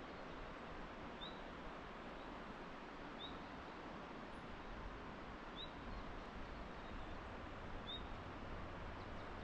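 A small bird gives a short, high, rising chirp about every two seconds over a faint, steady hiss.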